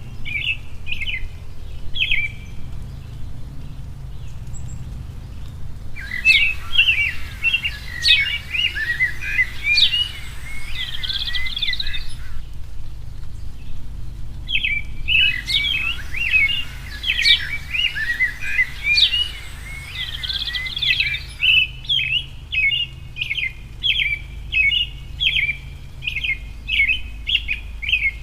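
Songbirds calling: repeated short chirps, broken twice by stretches of dense, mixed chattering that start and stop abruptly, with a steady low hum underneath.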